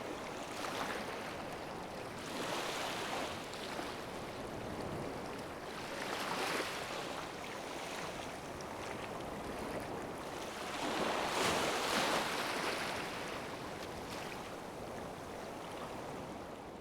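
Sea waves washing onto the shore: a rushing hiss that swells and falls away every few seconds, the loudest wave breaking about eleven seconds in.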